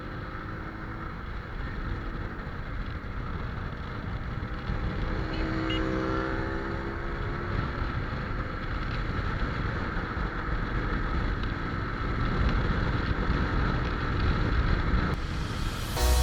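Mondial RX1 Evo motorcycle running under way, its engine note buried in steady wind rush on the microphone, with the pitch briefly rising and falling about five to seven seconds in.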